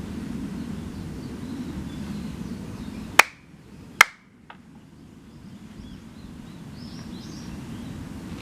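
Two sharp hand claps about a second apart, the kashiwade clapping that closes a Shinto tamagushi offering, over a low steady rumble. Small birds twitter faintly afterward.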